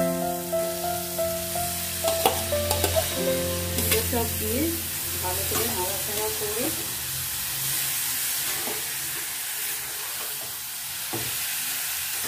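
Boiled banana flower and potatoes sizzling as they fry in spiced oil in a metal kadai, stirred with a metal spatula that scrapes and clicks against the pan, most often in the first few seconds.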